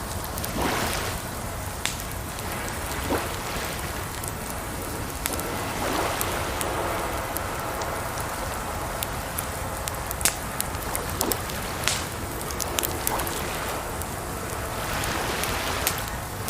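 A wood campfire crackling, with scattered sharp pops, over a steady rush of flowing water.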